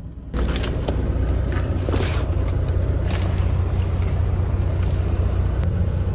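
A semi-truck's diesel engine running steadily, a constant low hum that cuts in sharply right at the start, with a few faint knocks over it.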